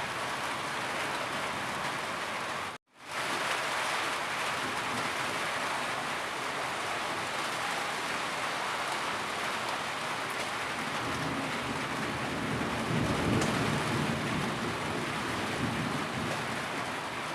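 Steady, heavy rain falling without a break. About three seconds in it cuts out to silence for a moment and fades back in. Later a low rumble swells for a few seconds.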